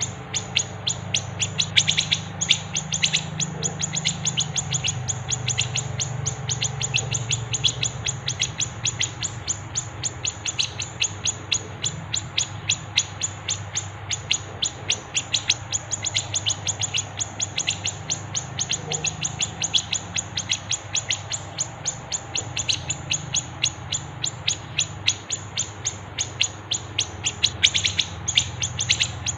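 Small songbirds chirping rapidly and without pause, a dense run of short high chirps several times a second, from a bird-song master recording that mixes cucak jenggot (grey-cheeked bulbul), fighting house sparrows and siri-siri. A steady low hum sits underneath.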